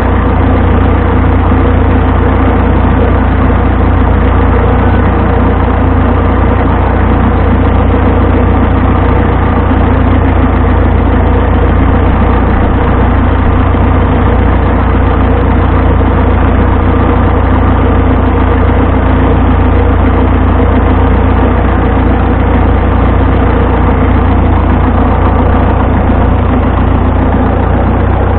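Vintage tractor engine running loud and steady at an even speed.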